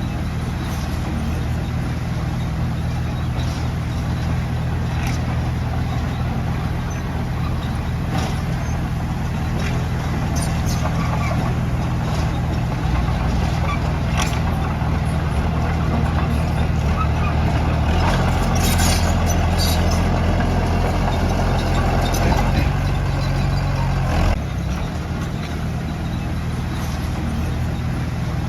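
Heavy diesel engine of earthmoving machinery running steadily under load, with occasional metallic clanks. It works harder from about two-thirds in, then eases off suddenly.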